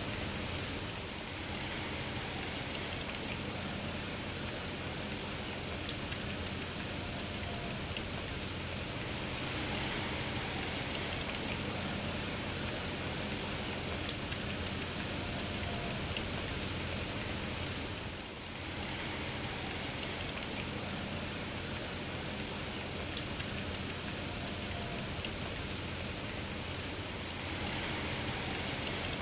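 Steady rain falling, an even hiss that swells and eases slightly, with three sharp, louder taps spread through it.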